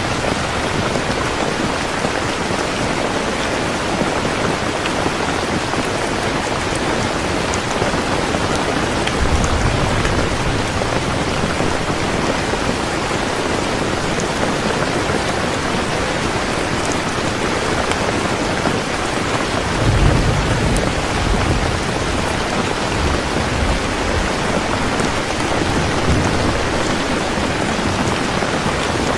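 Heavy rain falling steadily, with low rolls of distant thunder rumbling in twice, the stronger one about two-thirds of the way through.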